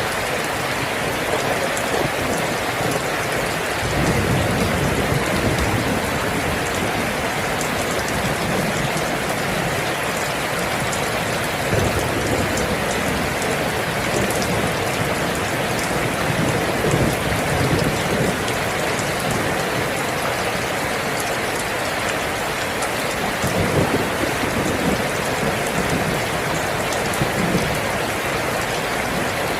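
Steady rain falling, an even hiss of drops, with a few low rumbles of distant thunder swelling and fading now and then.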